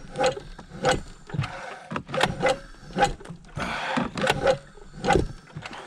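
Recoil pull-starter of a Yamaha V-Max 700 triple snowmobile being yanked again and again, stiff to pull, with the two-stroke engine turning over on full choke without catching.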